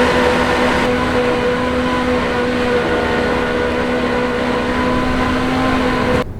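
A steady mechanical hum with a constant held tone over a loud rushing noise, cutting off suddenly near the end.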